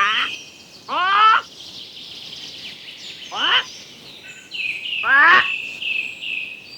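An animal calling repeatedly: four short calls, each rising in pitch, with a steady high-pitched whistling tone behind them.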